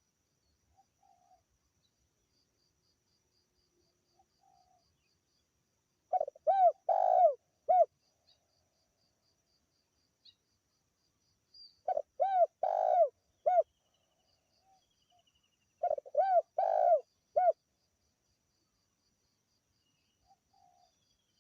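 Spotted dove (tekukur) cooing: three phrases of four or five low, arching coos, each phrase a few seconds apart. Faint insect chirping and ticking run underneath.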